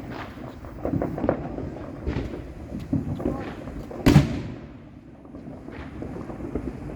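Neighbourhood fireworks going off: scattered pops and thuds, with one sharp, loud bang about four seconds in that rings on briefly.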